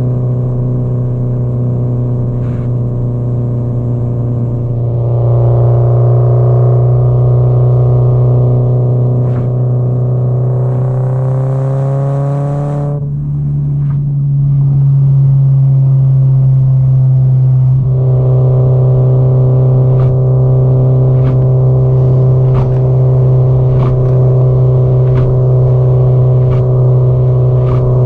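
Subaru Impreza GDB-E's turbocharged flat-four, heard through an aftermarket muffler, pulling at road speed. The revs climb steadily for a few seconds, then drop suddenly about 13 seconds in. The engine note comes back stronger about 18 seconds in.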